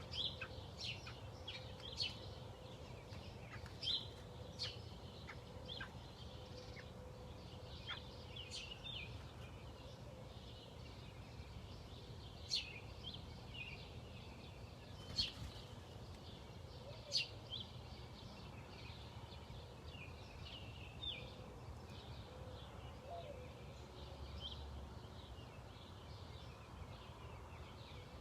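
Small birds chirping: short, sharp chirps and calls come scattered throughout, several loud ones near the start and a few more in the middle, over a steady low rumble.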